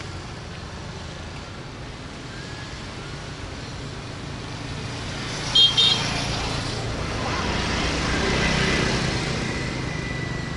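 Steady road and riding noise with traffic around. A little past the middle come two quick, high horn beeps in a row, and then the traffic noise swells for a couple of seconds.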